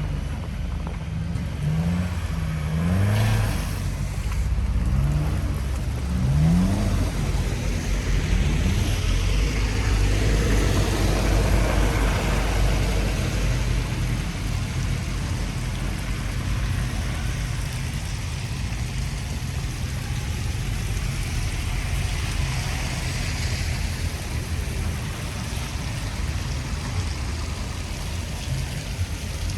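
Strong wind buffeting the microphone with a constant low rumble. Over it, a road vehicle accelerates past, its engine note rising in short steps several times during the first several seconds, followed by a swell of tyre and traffic noise.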